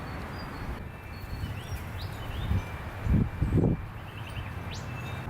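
Small birds chirping in short rising calls over steady low outdoor background noise, with a brief louder low rumble or thump about three seconds in.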